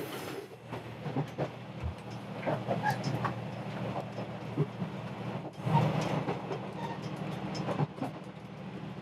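Diesel railcar running along the line, heard from inside the car: a steady low engine hum with wheels clicking over the rails, and a louder rumble about six seconds in.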